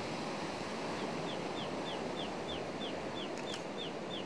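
A bird giving a run of about a dozen short, high, falling chirps, about three a second, starting about a second in, over a steady outdoor hiss.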